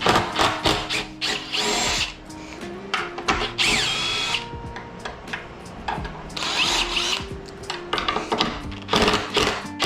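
Impact driver backing screws out of the deer form's head to free the antlers, its motor whining up and down in several short bursts with clicks and handling noise between them.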